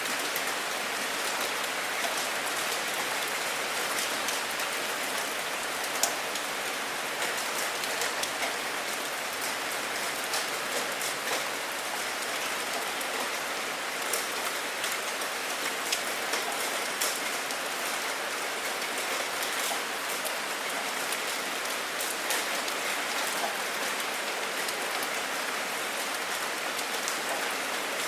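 Steady rain, with many individual drops ticking sharply on a hard surface.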